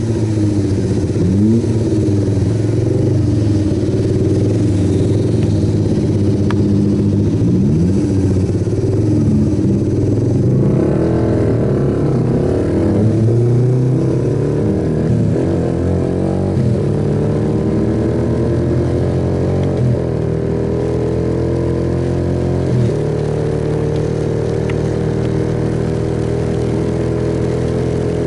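Suzuki Yes motorcycle's single-cylinder engine revving up through the gears several times in the first few seconds, then running at a steady cruising note, heard over a haze of road and wind noise.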